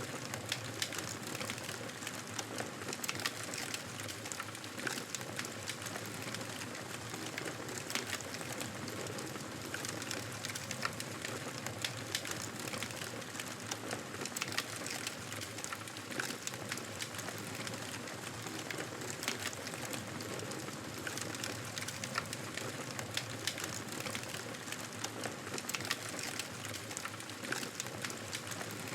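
Wood fire burning in a fireplace: constant irregular crackling and sharp pops over a steady hiss of the flames.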